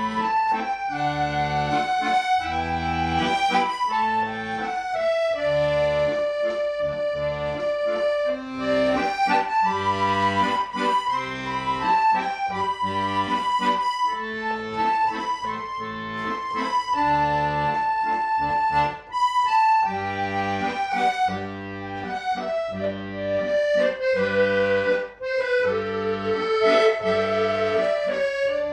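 Accordion playing a slow song melody in G in long held notes, over a bass accompaniment that pulses about once a second.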